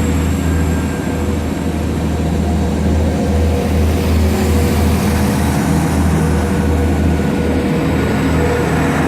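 Class 175 diesel multiple unit's diesel engines running steadily with a strong low hum as the train departs the platform.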